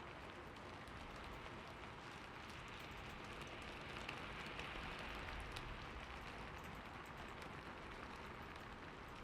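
Steady rain falling: an even hiss with scattered drops ticking, growing slightly louder about halfway through.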